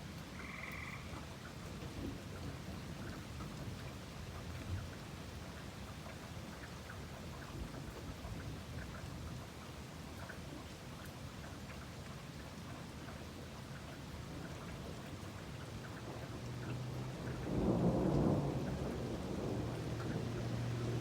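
Steady summer rain falling, with a rumble of thunder that swells and becomes loudest near the end.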